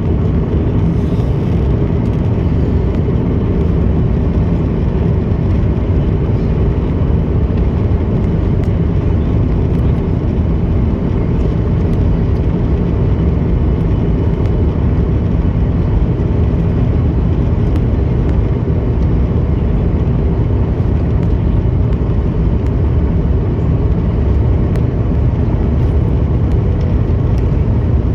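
Airliner cabin noise on descent before landing: a steady low roar of engines and rushing air, unchanging throughout.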